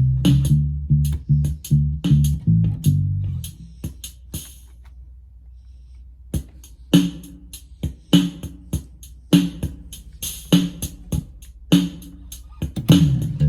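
Electric bass played through a Roland Micro Cube Bass RX amp over its built-in drum machine beat. The bassline stops about three seconds in. After a short near-quiet gap, the programmed drum pattern plays on its own, and the bass comes back in at the very end.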